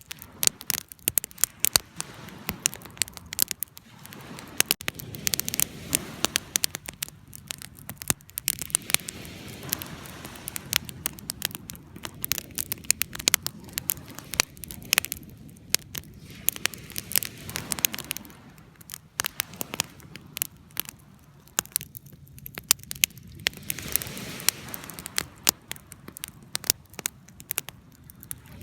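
Wood fire burning, with many sharp, irregular crackles and pops over a low, soft rush.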